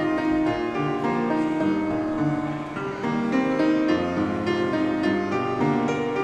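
Live chamber music from a quartet of two flutes, a clarinet and a piano: held woodwind notes moving in a melody over piano.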